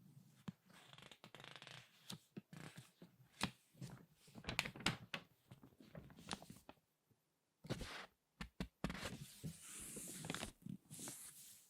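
Glossy magazine pages crinkling and rustling as they are squeezed and turned by hand: irregular sharp crackles with short swishes, a brief pause about seven seconds in, then a longer rustle.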